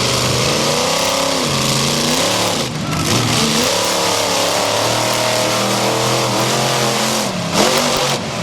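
Monster truck engine revving, its pitch repeatedly falling and rising again as the throttle is worked, with a dense hiss over it.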